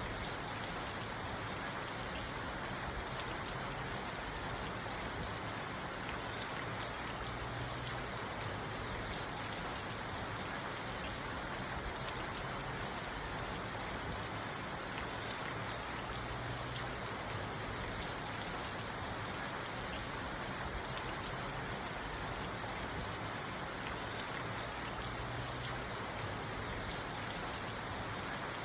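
Steady rain falling on a parked car, heard from inside the cabin; an even hiss with no thunder.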